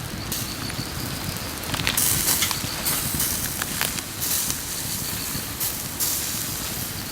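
Wood fire crackling and hissing, with scattered sharp pops.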